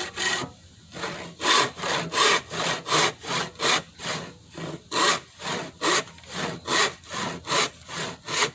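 Hand saw cutting through a wooden board in quick, even strokes, about two and a half a second, starting about a second in after a brief pause.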